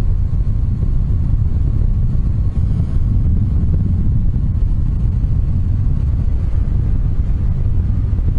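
Steady wind buffeting the camera microphone in paraglider flight: a constant low rumble of airflow.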